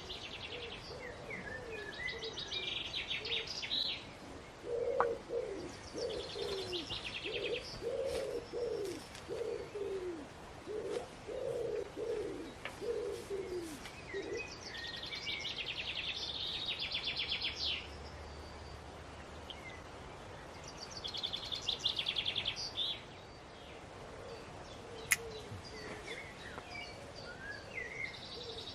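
Birdsong: a pigeon cooing a series of low, falling notes for several seconds. A songbird repeats a short, fast trilled phrase every few seconds. A single sharp click comes near the end.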